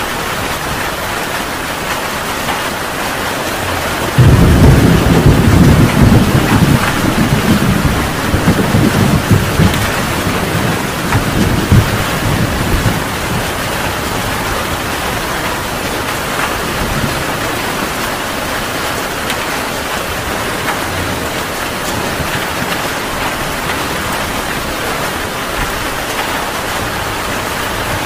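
Heavy rain falling steadily. About four seconds in, a thunderclap breaks suddenly and rumbles on in waves for several seconds before fading back under the rain.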